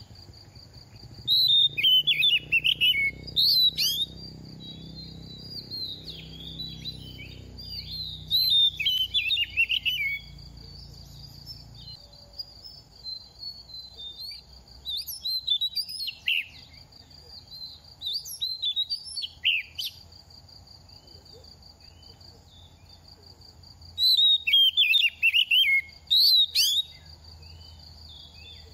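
Oriental magpie-robin singing: fast, varied whistles and chirps in four bursts with pauses between them. A steady thin high tone runs behind the song.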